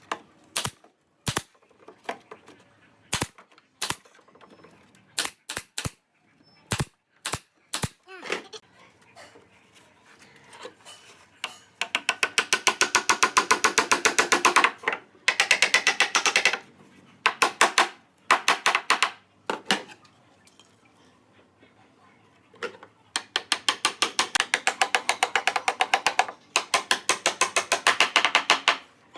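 Woodworking power tool in use on pallet wood. First come a dozen or so separate sharp knocks about a second apart, then several one- to three-second bursts of very rapid, even hammering strikes.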